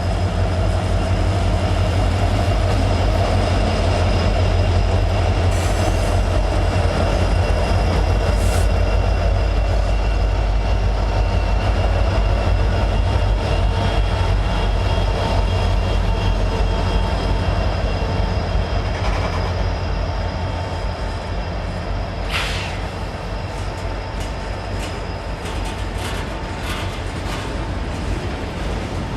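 Freight train rolling past at close range: a steady, heavy rumble of cars on the rails with thin steady whines from the wheels, and a few sharp clicks near the end.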